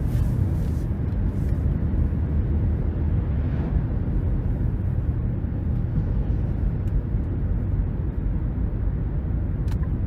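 Steady low road and tyre rumble with engine noise inside the cabin of a 2023 Nissan Rogue (1.5-litre turbocharged three-cylinder, CVT) cruising at a constant speed. A single sharp click sounds near the end.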